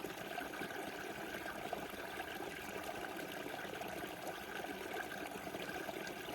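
Small river burbling and rushing steadily over stones, with a fine splashing texture.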